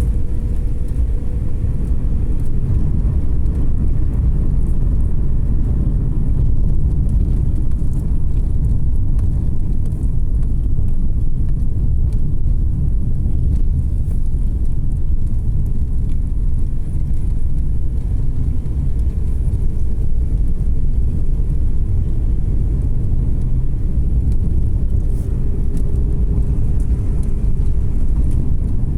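Car driving uphill: steady low rumble of engine and tyre noise, with a faint engine tone that comes and goes.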